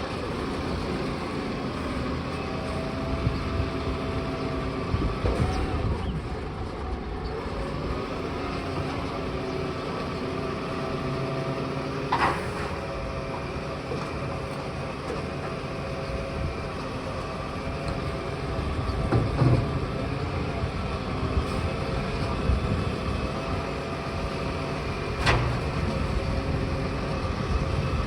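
Garbage truck running steadily, with a sharp knock about twelve seconds in and another near the end.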